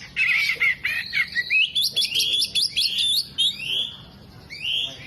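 Oriental magpie-robin singing a fast, varied song of chirps and quick rising whistles, mixed with mimicked calls of other birds. There is a short lull just before four seconds in.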